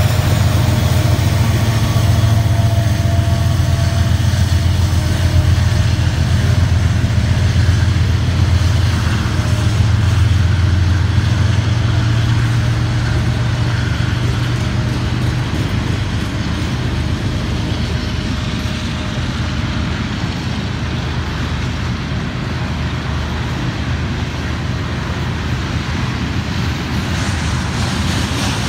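Norfolk Southern freight train passing a grade crossing. At first the diesel locomotives' engines give a loud low hum, then comes the steady rumble of tank cars rolling over the rails. The sound eases off somewhat in the second half.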